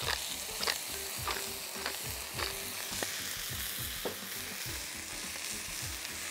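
Smash-burger patties and ramen-noodle buns sizzling steadily on a hot grill, with a sharp tick about every half second.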